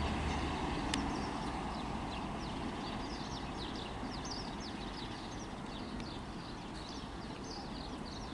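Diesel rumble of a receding CrossCountry HST fading slowly, with birds chirping: many short, high, falling calls from about a second in.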